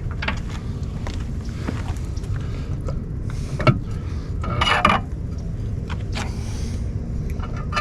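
Scattered light metal clicks and clinks as propeller hardware on an outboard's prop shaft is handled, with a denser bout of handling noise about four and a half seconds in, over a steady low rumble.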